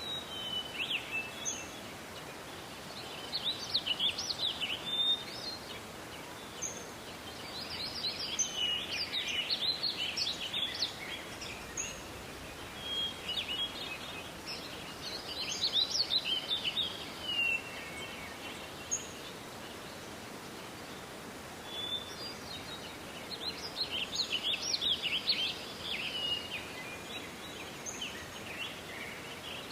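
Wild songbirds singing in a forest: bursts of high, quick twittering song every few seconds. Under them runs a steady background hiss of forest ambience.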